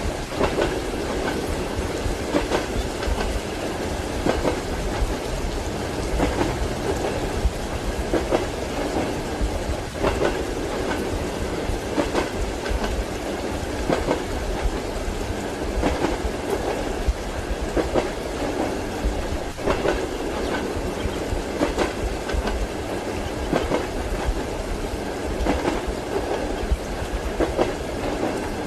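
Passenger train wheels clacking over rail joints, with a steady rumble of the carriage in motion and frequent short, uneven knocks.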